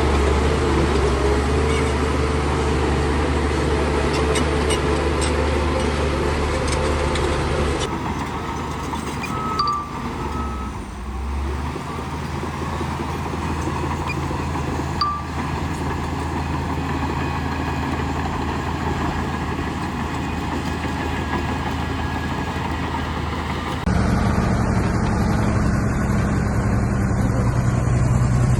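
Heavy diesel engines of earthmoving machines running steadily under load. The engine note changes abruptly about eight seconds in and again near the end.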